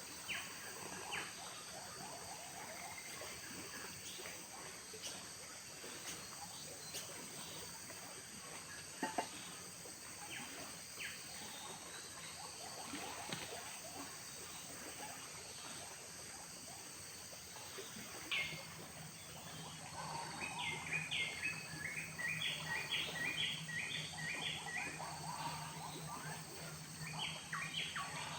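Forest ambience: a steady high insect drone with scattered small clicks. From about two-thirds of the way in, a bird calls in quick repeated chirps for several seconds and a low steady hum comes in.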